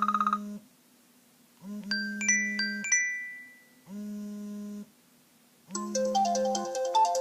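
A run of iPhone iOS 7 ringtone and alert tone previews, each played briefly with short silences between. A quick buzzy trill ends within the first second. Bright chime notes follow from about a second and a half in, then a steady electronic tone lasting under a second, and a melodic ringtone starts near the end.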